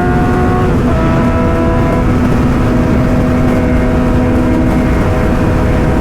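Sport motorcycle engine running at riding speed, with wind rushing over the microphone; the engine note shifts about a second in and again around two seconds in.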